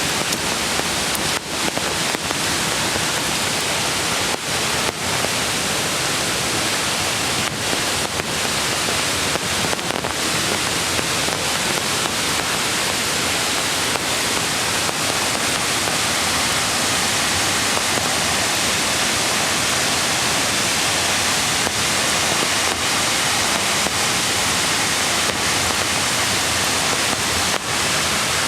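Mountain creek water rushing steadily over rocks, a loud, even hiss of flowing water, with a few faint taps in the first ten seconds.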